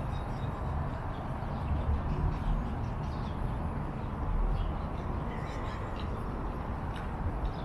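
Outdoor garden ambience: a steady rush with a fluttering low rumble of wind on the microphone, and short bird calls now and then.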